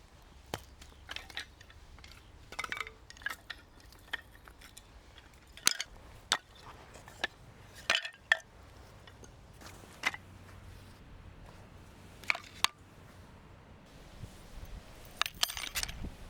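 Camp cookware and gear being handled, making irregular clinks and knocks, with a quick cluster of them near the end.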